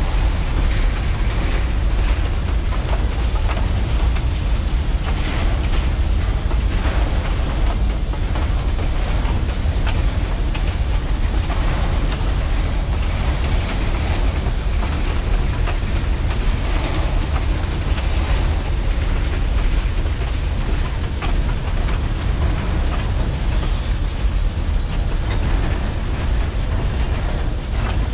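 Narrow-gauge railway cars rolling past on the rails: a steady heavy rumble with irregular clicking of wheels over the rail joints.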